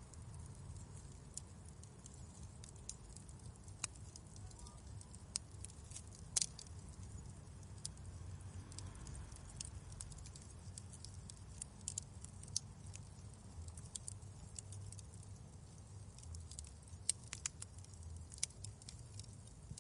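Wood fire crackling in a fireplace: irregular sharp pops and snaps, one louder pop about six seconds in, over a steady low rumble.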